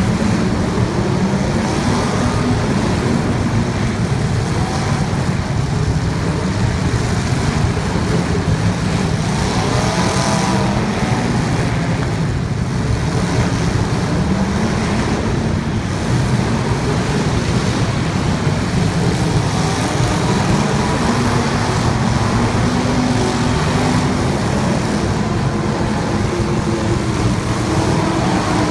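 Race car engines running at speed, several at once, their pitch rising and falling as they rev. The din is loud and steady.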